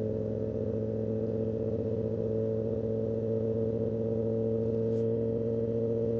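Kawasaki ZX-10R inline-four motorcycle engine running steadily at a constant pitch.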